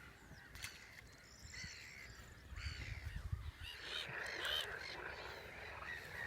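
Faint bird calls, a few short chirping notes mostly in the second half, with several light clicks.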